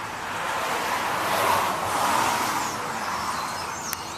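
A car passing by, its tyre and engine noise swelling to a peak about two seconds in and then fading away, with faint bird chirps starting near the end.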